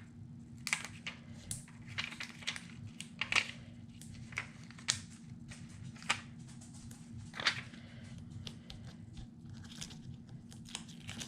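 Paper and cardstock being handled on a craft table: irregular light rustles, crinkles and sharp little clicks and taps, over a steady low hum.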